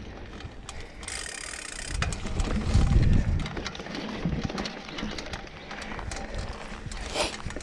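Mountain bike ridden over a dirt trail: tyres on rough ground with frequent rattling and knocking of the bike, and a louder low rumble about two to three seconds in.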